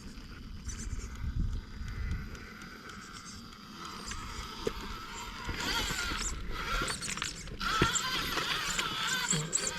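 Wind rumbling on the microphone. Then, from about halfway through, the whine of an RC rock crawler's electric motor and gears, wavering in pitch as the throttle changes, with a couple of sharp clicks.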